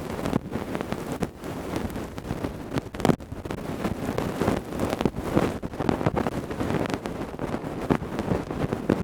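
Ear-cleaning tools rubbing and scratching against a microphone's ear: dense, irregular crackling and scraping close up, with a sharper scratch about three seconds in.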